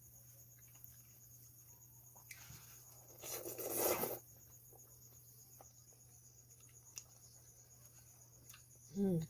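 Steady night-time cricket chirping throughout, with a loud noisy eating sound at a mouthful of hot ramen about three seconds in, lasting under two seconds. Near the end comes a short hummed "mm" of enjoyment.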